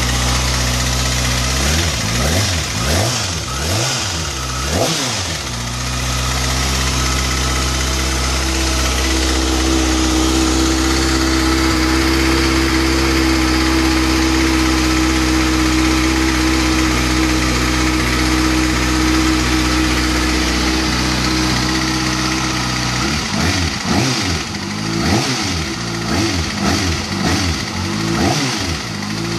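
2013 Kawasaki ZX-6R 636's inline-four engine running steadily, blipped up and down several times in quick succession early on and again near the end. The bike makes a pretty loud ticking noise that concerns the owner.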